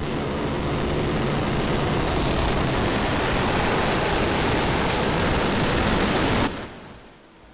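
Starship SN10's Raptor rocket engines firing during the landing burn: loud, steady rushing noise that starts abruptly and cuts off suddenly about six and a half seconds in.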